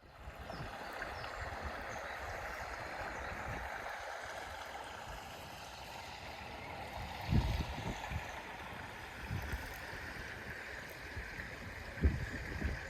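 Steady rush of flowing water, with a couple of short low thumps about seven seconds and twelve seconds in.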